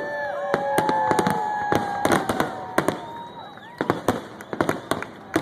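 Fireworks finale: a dense run of sharp bangs throughout. For the first three seconds, several whistling shells overlap, each a steady whistle that bends down in pitch as it fades.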